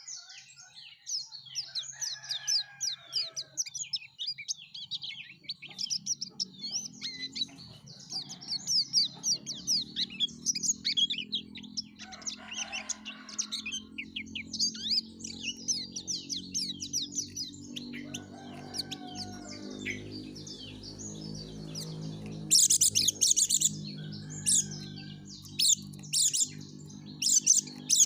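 Yellow-breasted pleci (white-eye) singing busily in rapid, high twittering chirps and trills, louder from a little after two-thirds of the way in. A low steady hum runs underneath from a few seconds in.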